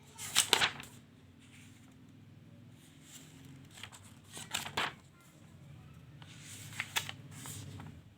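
Notebook pages being turned: about four short paper rustles, the first right at the start and the others in the second half.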